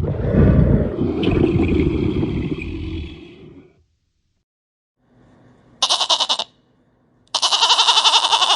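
A tiger roars for about three and a half seconds, then fades out. After a pause, a goat bleats twice in a quavering, rapidly pulsing voice: a short bleat, then a longer one.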